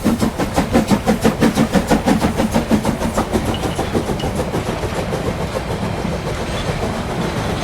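Toy train running along its track with a fast, rhythmic chugging clatter, about five beats a second at first, evening out into a steadier rattle later.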